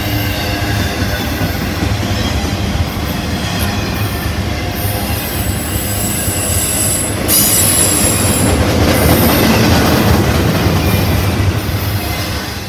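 Intermodal freight train of container and trailer cars rolling past close by: a steady loud rumble of steel wheels on rail. High-pitched wheel squeal joins about five seconds in, and the train gets louder at about seven seconds.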